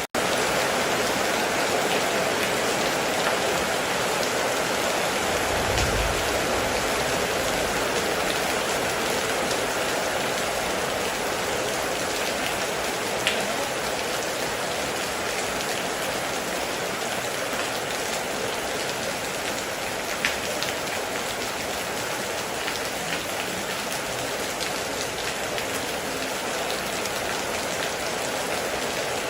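Heavy rain falling steadily, with a brief low rumble about six seconds in and a couple of sharp drop taps.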